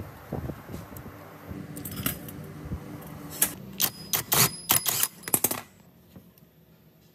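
Metallic clicks and clinks of chainsaw parts being taken apart with tools, around the centrifugal clutch. A quick run of loud, sharp clinks comes about halfway through, then it goes nearly quiet.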